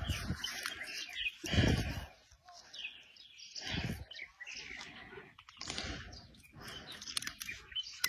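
Birds chirping in short high calls, with a few short low rumbling thumps, the loudest about a second and a half in.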